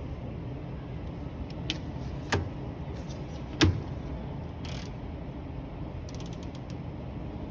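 Clicks, knocks and creaks of a display washing machine's door and controls being handled, over steady shop background noise. There are a few separate knocks, the loudest about three and a half seconds in, a short scrape just after, and a quick run of small clicks near the end.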